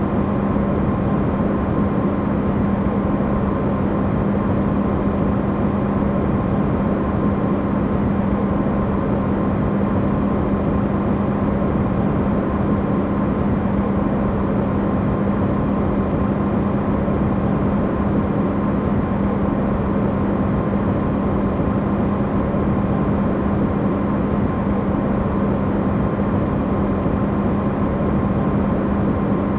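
Electrolux refrigerator running, recorded amplified: a steady hum with a strong low tone and fainter higher tones over an even hiss.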